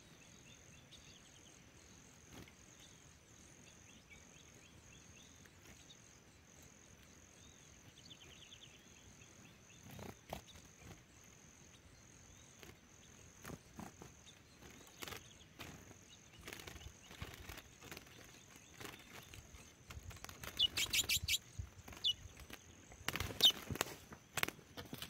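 Wild male curió (chestnut-bellied seed-finch) caught on a bamboo trap cage, fluttering and beating its wings against the bars with quick sharp chirps, over a faint steady insect whine. The flapping starts with scattered knocks about ten seconds in and is loudest near the end, when running footsteps come up to the cage.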